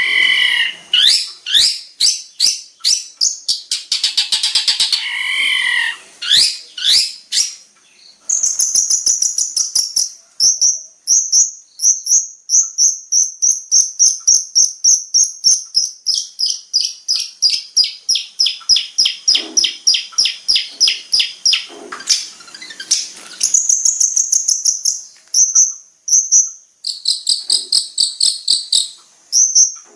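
Long-tailed shrike (cendet) singing loudly in a mimicry-filled 'isian' song. It opens with varied chattering, sliding phrases, then from about eight seconds gives a long, rapid run of high, piercing notes at about four a second that slowly drop in pitch. Short high trills follow near the end.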